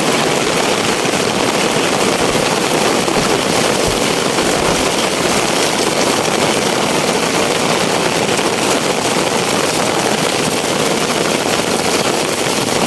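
Heavy rain falling steadily, a dense even hiss of countless drops with no let-up.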